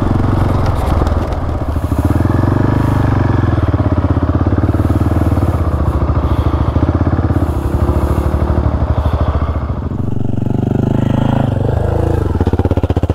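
Single-cylinder dual-sport motorcycle engine running steadily under load while riding over sand; the revs drop and rise again near the end.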